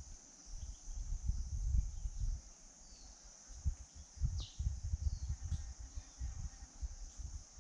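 Steady high-pitched insect drone, with a few short, downward-sliding chirps from birds arriving at the fruiting tree, the clearest about four and a half seconds in. Irregular low rumbling on the microphone sits underneath.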